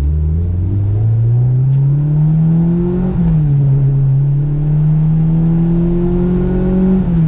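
Honda Civic's four-cylinder engine heard from on board, accelerating under load. The pitch climbs steadily, drops sharply at an upshift about three seconds in, then climbs again until a second upshift near the end.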